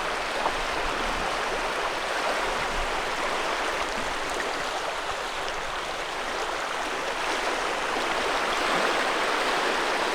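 Stream water rushing steadily, an even hiss of flowing water.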